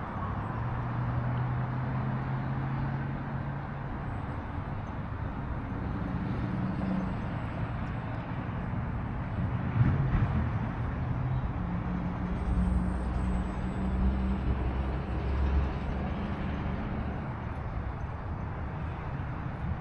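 Gusty wind rumbling on the microphone in an open field, swelling about halfway through. Underneath, a low steady engine hum from somewhere distant fades in and out.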